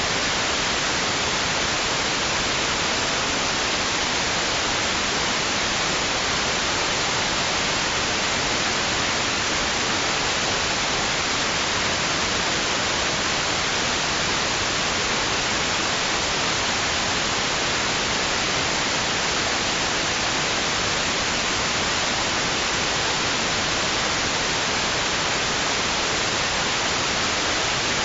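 Steady white noise for soothing a baby: an even, bright hiss that never rises or falls in level.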